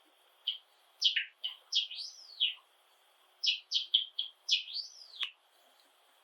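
Java sparrow singing: two short phrases of quick, high chirping notes, each ending in an arched note that rises and then falls.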